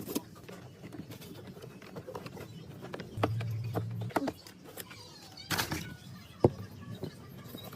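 Scattered clicks and knocks of tools and parts being handled during car disassembly, with a brief low hum about three seconds in and one sharp knock a little past six seconds.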